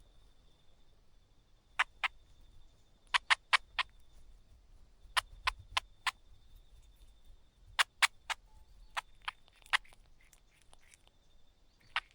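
Streaked spiderhunter giving sharp, clipped chip calls in quick runs of two to four notes, repeated every second or two.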